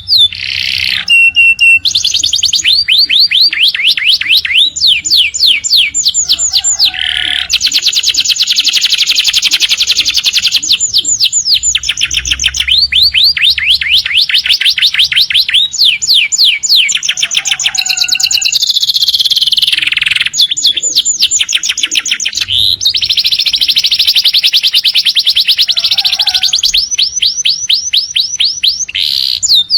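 Domestic canary singing a long, almost unbroken song: loud, very fast trills and rolls of rapid repeated notes, switching to a new trill every few seconds with only brief pauses.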